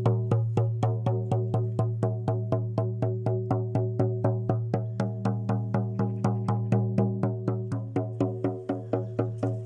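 Music: a steady, fast, even drumbeat, about four to five beats a second, over a low sustained drone.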